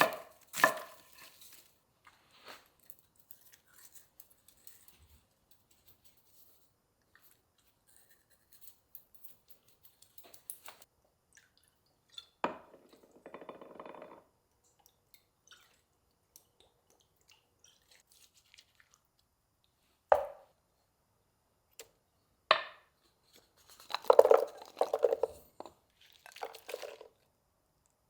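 Kitchen food-prep sounds: a few knife chops on a cutting board at the very start, then sparse knocks and clatter of dishes and utensils. There is a short rustling patch about twelve seconds in and a louder burst of clatter near the end.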